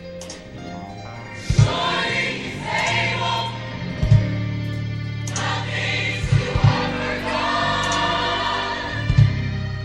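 Gospel choir singing over a band with bass and drums.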